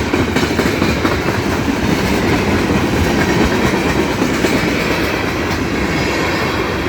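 Freight train cars rolling past on a siding, a steady rumble with the clickety-clack of wheels over rail joints.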